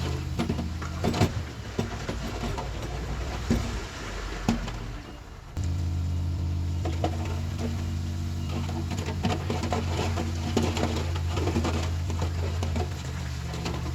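Komatsu D31PX crawler dozer's diesel engine running, with scattered clanks and knocks from the machine as it works dirt. About halfway through, the engine sound suddenly gets louder and holds steady.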